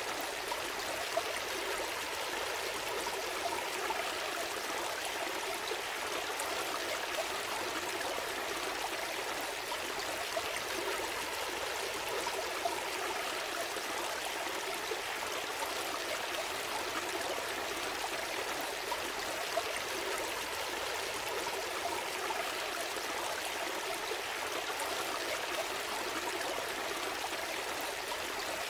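Small stream flowing steadily over stones, with a continuous babbling and trickling of water.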